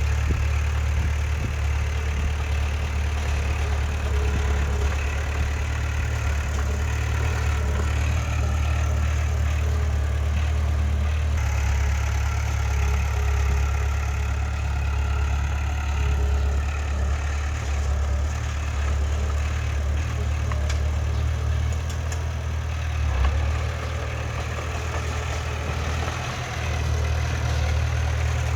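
Heavy earthmoving machine's diesel engine running steadily with a deep, continuous drone, easing slightly near the end.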